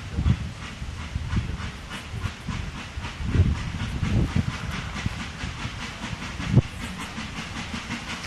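Steam locomotive of the Isle of Man Steam Railway working, with a quick regular beat of hissy exhaust chuffs and steam hiss. Irregular heavier low thumps run beneath it, with the sharpest about six and a half seconds in.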